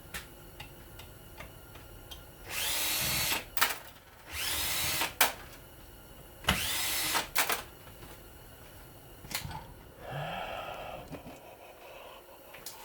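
Power drill run in three short bursts of just under a second each, its motor whine rising and levelling off with each trigger pull, with clicks and knocks of metal parts between the bursts.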